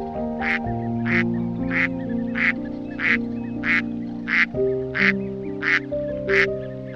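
A duck quacking in a fast, even series, about two quacks a second, over gentle music with long held notes.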